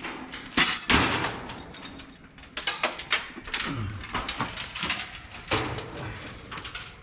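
Irregular knocks, thuds and scraping as heavy HVAC equipment is handled and moved.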